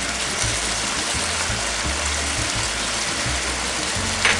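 Chicken pieces, ginger and chili peppers frying in hot sesame oil and soy sauce in a wok: a steady sizzle. A brief click near the end.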